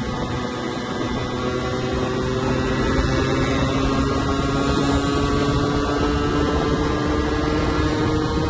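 Yamaha 125ZR's single-cylinder two-stroke engine running under way from the rider's seat, its pitch climbing slowly and steadily as the bike gathers speed, over a haze of wind and road noise.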